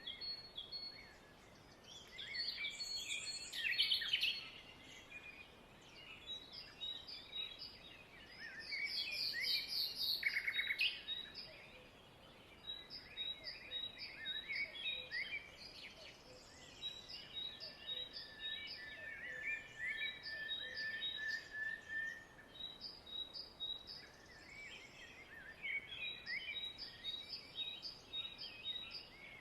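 Many small birds chirping and twittering at once, with quick runs of short high peeps and, past the middle, one longer steady whistle.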